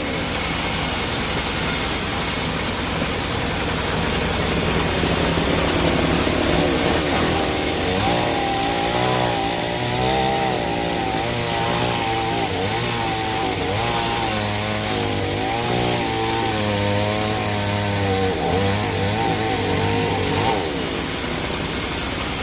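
Sawmill saw running and cutting through a teak log, a steady machine hum with a wavering whine that rises and falls under load from about eight to twenty seconds in.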